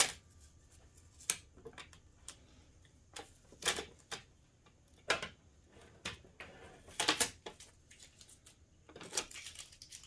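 Irregular clicks, taps and short rustling scrapes of hands handling plastic parts and packaging while unpacking a coffee maker.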